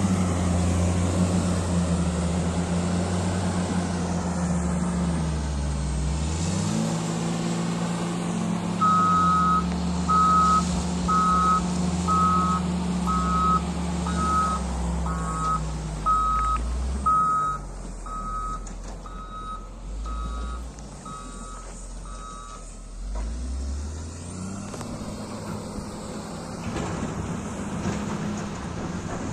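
Heavy construction vehicle's diesel engine running, its pitch dropping and rising as it works. About a third of the way in, its reversing alarm starts beeping about once a second, and it stops after some fourteen beeps as the engine settles low before picking up again near the end.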